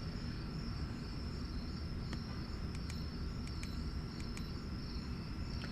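Crickets chirping steadily in the background over a low rumble, with a few faint, sharp clicks scattered through.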